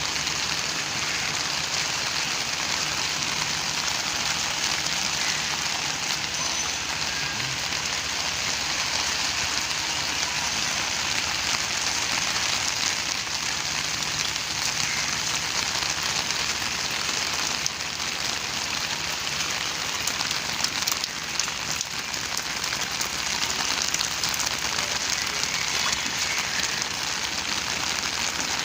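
Steady rain falling on a rooftop garden: an even hiss with occasional sharper drop hits.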